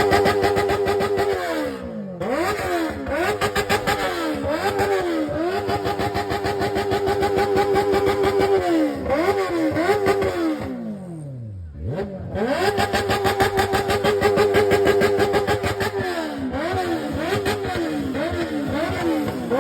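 Benelli 600i inline-four motorcycle engine being revved. It gives repeated quick throttle blips with the revs falling back between them, plus a long sweep down that nearly dies out about twelve seconds in before the engine picks up again.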